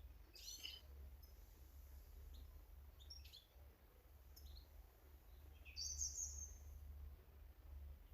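Small garden birds calling faintly: a few short high chirps, then one longer, louder high call about six seconds in, over a steady low hum.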